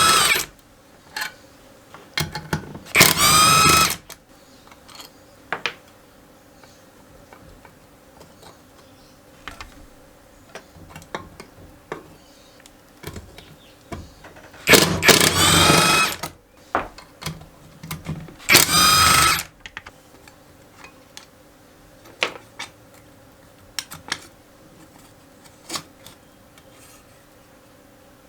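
A handheld power tool, such as a drill or driver, run in three short bursts of about a second each, with its whine sliding in pitch. Between the bursts come small clicks and taps from handling tools and parts.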